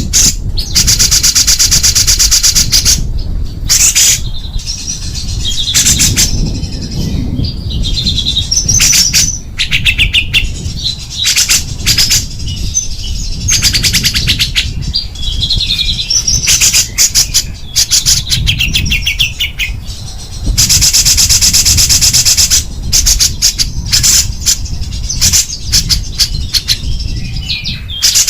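Small songbird singing fast, harsh trilled bursts, the dense 'tembakan' style prized for training competition songbirds, alternating with shorter high chirps and whistles. The two longest rapid trills come near the start and about two-thirds of the way through, over a low steady rumble.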